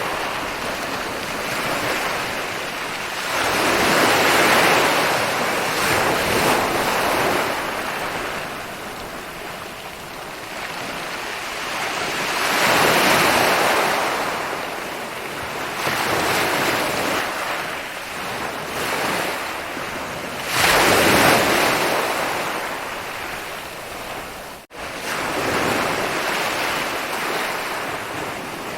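Ocean surf rolling in and breaking on a beach, with large waves swelling and washing up about every eight or nine seconds and quieter wash between them. The sound cuts out for an instant near the end.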